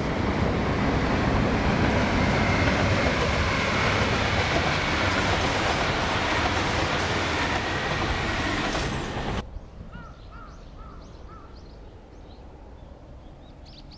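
JR Shikoku 2000 series diesel railcar train running across a concrete river bridge, a loud steady rumble that cuts off abruptly about nine seconds in. After that, birds call in a few short chirps.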